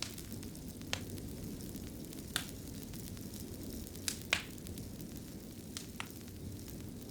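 Wood fire crackling in a fireplace: a steady low rumble of burning with scattered sharp pops, about seven over the few seconds, two of them close together just after the middle.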